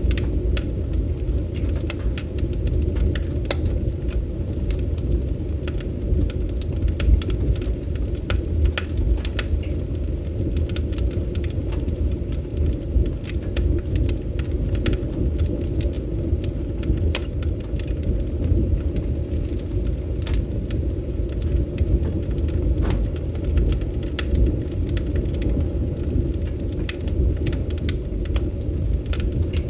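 Wood fire crackling, with frequent sharp pops and snaps scattered over a steady low rumble.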